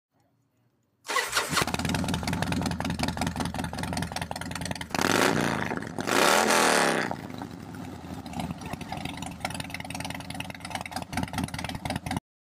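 A motorcycle engine starting, catching about a second in and settling into a rhythmic idle. It is revved twice around the middle, each rev rising and falling in pitch, then drops back to idle until the sound cuts off abruptly.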